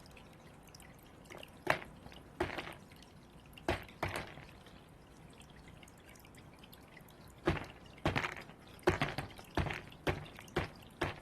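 A bird pecking hard at food balls: irregular sharp knocks, a few spaced out in the first half, then a quicker run of about eight in the second half.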